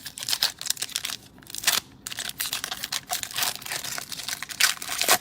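Plastic wrappers of trading card packs being torn open and crinkled by hand, a dense, irregular crackling.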